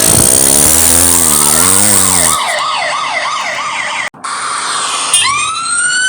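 Cartoon police siren sound effect: a fast warbling siren over a motor-like drone that stops about two seconds in, then a brief cut and a slow rising siren wail near the end.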